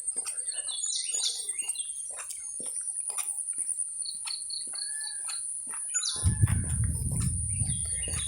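Birds chirping and calling in short notes over a steady high-pitched insect trill. About six seconds in, a low rumble sets in and runs on.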